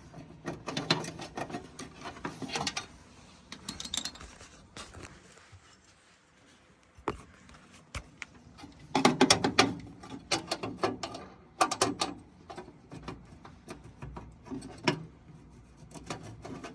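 Quarter-inch drive ratchet clicking and rattling in several bursts with pauses, as the screw holding a gas furnace's flame sensor is undone. The busiest clicking comes about nine to twelve seconds in.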